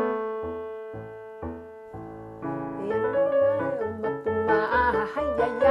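Electric keyboard starting a lively tune: a held chord fades, a few bass notes are struck, then fuller playing comes in with singing joining about halfway through.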